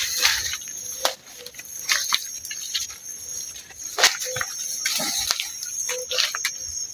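Insects trilling steadily at a high pitch, with scattered short knocks and rustles.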